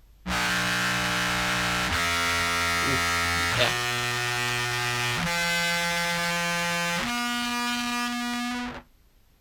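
Contrabass clarinet played through a chain of fuzz and effects pedals: a sequence of about five long, heavily fuzzed, buzzy notes, each a different pitch, with a brief wobble in pitch in the middle, cutting off abruptly near the end.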